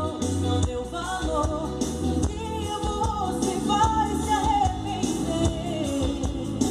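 A song with a singing voice and a heavy bass line, played through a Sony GTX-787 sound system.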